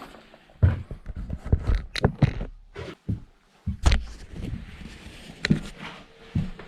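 A run of irregular knocks and thuds, with a few sharp clicks among them.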